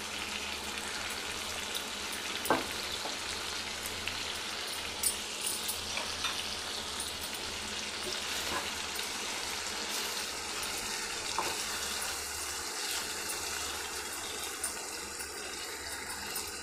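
Chicken drumsticks sizzling in oil and thick soy-and-tomato sauce in a nonstick pan, a steady frying hiss, while a wooden spatula stirs them. A few sharp knocks of the utensils against the pan, the loudest about two and a half seconds in.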